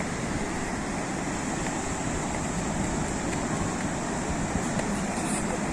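Sea surf washing onto the shore: a steady, even rush of breaking waves with a deep rumble underneath.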